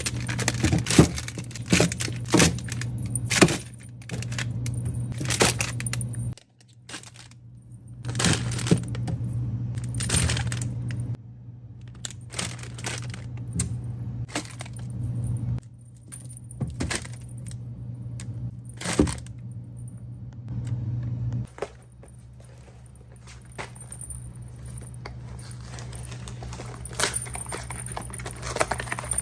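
Clinks, knocks and clatter of containers, bottles and packets being handled and put into a fridge, over a steady low hum. The background hum breaks off and changes abruptly several times.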